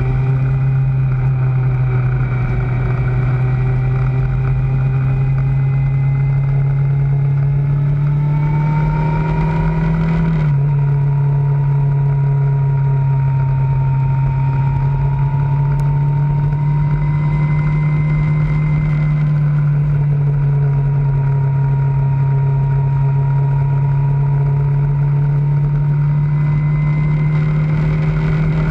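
Kawasaki ZZR600's inline-four engine running under way. Its pitch climbs slowly for about ten seconds, drops suddenly as it shifts up a gear, then holds steady.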